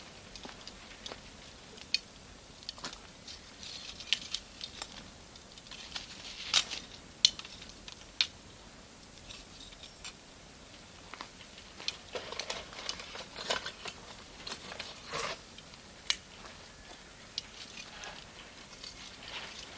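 Campfire of firewood and Iwate cut charcoal crackling, with irregular sharp pops and snaps of varying loudness, a few standing out clearly about six, seven and sixteen seconds in.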